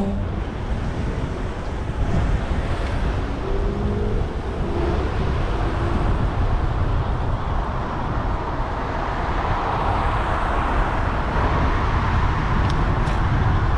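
City street traffic heard from a moving bicycle: a steady hiss of cars and tyres, with wind rumbling on the microphone. The traffic noise grows louder in the second half as vehicles pass close by.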